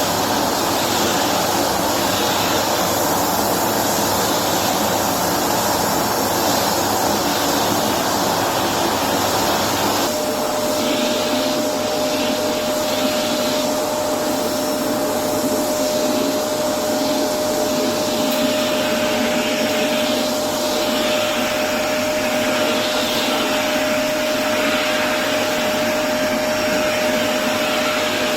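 Electrolux Precision bagless upright vacuum cleaner running steadily while vacuuming. About ten seconds in the sound changes: the low rumble drops away and a steady whine sets in.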